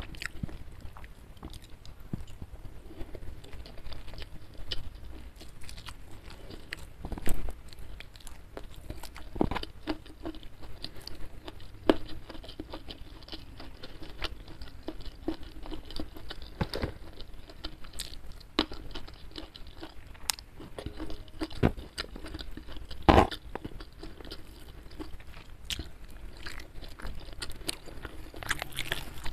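Close-miked chewing of a handful of rice and fried chicken, with wet mouth noises and irregular crunches and clicks. The loudest come about 7, 12 and 23 seconds in.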